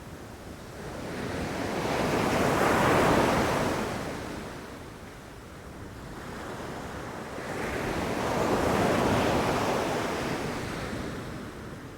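Sea waves washing onto a beach: two surges of surf about six seconds apart, each building over a couple of seconds and then fading, with a steady low rush of water between them.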